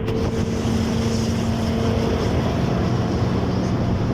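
Motorbike engine running steadily while riding along a road, with wind noise on the microphone; the engine note drops a little near the end.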